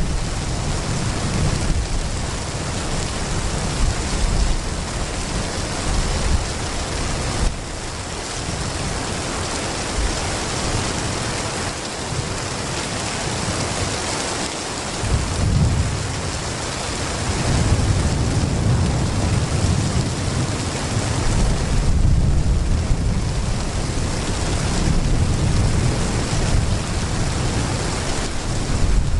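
Heavy rain pouring steadily, with low thunder rumbling on and off. The rumbling fades for a few seconds and swells again through the second half.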